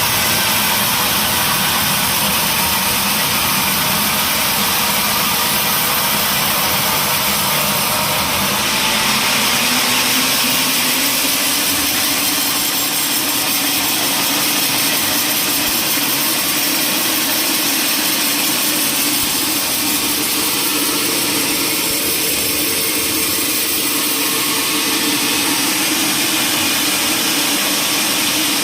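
Sawmill machinery running steadily with an engine-like drone and a thin, high, constant whine. The drone rises a little in pitch about a third of the way through.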